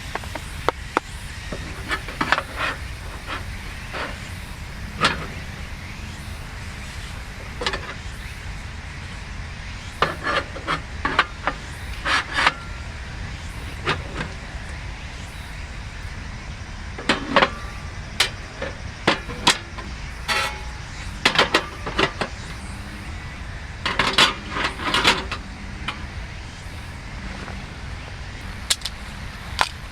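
Scattered clinks and knocks of camp utensils and gear being handled, in clusters of quick strikes, over a steady low background rumble.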